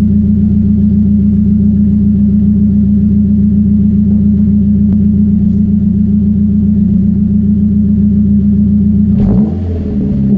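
Ford Focus RS Mk1's turbocharged 2.0-litre four-cylinder engine running at a steady speed, then revved briefly with a throttle blip about nine seconds in before settling again.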